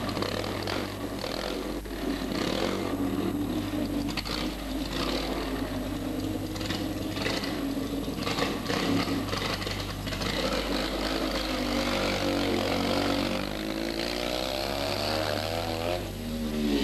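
Fiat 126p rally car's small two-cylinder air-cooled engine running as the car is driven slowly about, with the revs rising and falling several times near the end.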